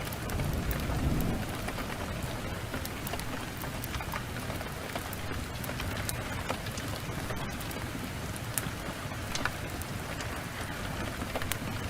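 Steady heavy downpour with a low roll of thunder swelling and fading in the first second or so. Scattered sharp pops and crackles from a wood fire sound over the rain.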